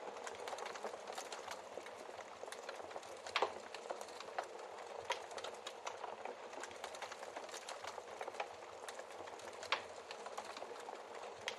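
Wood fire crackling steadily in a fireplace, with many small snaps and two louder log pops, one about three seconds in and another about ten seconds in.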